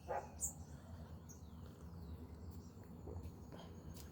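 Faint rural outdoor ambience: a few short bird chirps near the start and insects over a low, steady background rumble.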